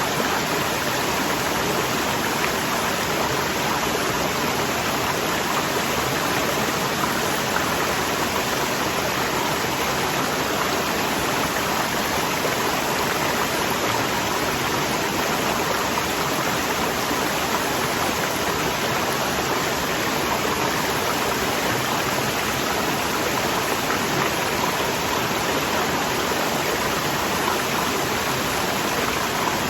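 Waterfall rushing: a steady, dense wash of falling water with no breaks or changes.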